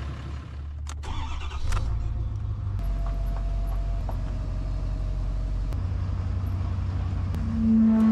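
A motor vehicle's engine running steadily, its low note shifting a few times, with a loud, steady pitched tone lasting about a second near the end.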